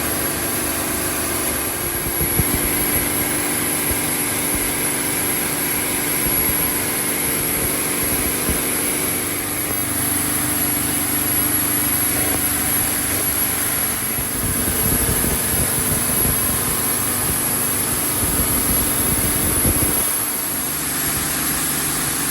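Split-case fire pump set running steadily under test: a constant machine drone with steady tones and a high whine over an uneven low rumble, which eases slightly about 20 seconds in.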